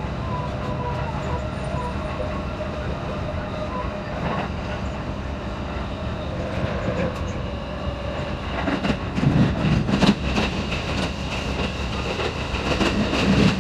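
Electric commuter train running, heard from inside the car and played at double speed. A faint whine sits in the running noise for the first few seconds. From about nine seconds in it grows louder and rattlier, with quick wheel clatter, as the train runs in a tunnel.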